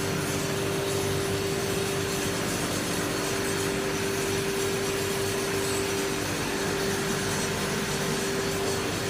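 Machinery of a running coal-fired steam boiler plant: a steady mechanical drone with a constant hum tone over broad, even noise.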